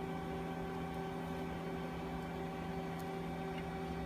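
Steady electrical hum from running equipment, holding several even tones, with a faint tick about three seconds in.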